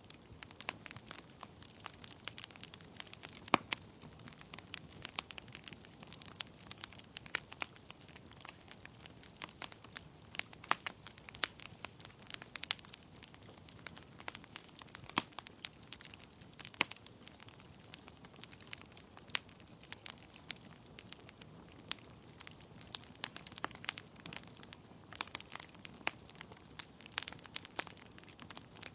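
Wood fire burning in a fireplace: logs crackling and popping with many sharp, irregular snaps over a soft steady hiss of flame.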